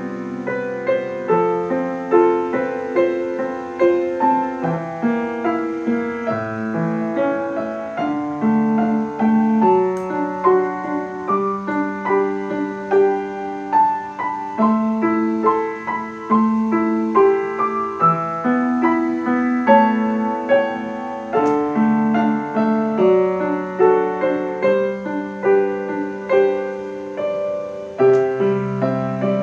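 Solo piano playing a melody over held low notes, each note struck and ringing away.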